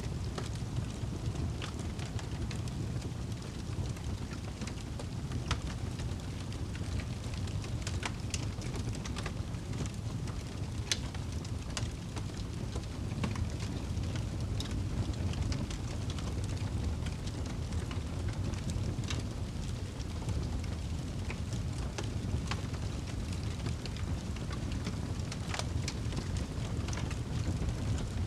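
Wood fire crackling, with sharp pops at irregular moments over a steady low rumble of the flames.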